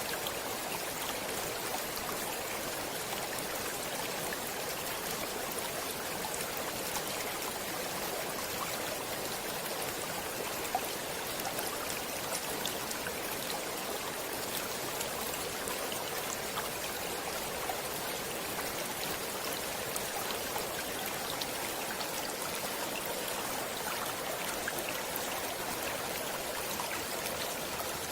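Flowing stream water: a steady, even rush with small splashes and droplets scattered through it.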